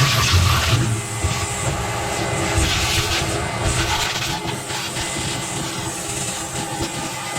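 Vacuum cleaner motor running steadily with a slender lint-trap attachment fitted, sucking lint from inside a clothes dryer.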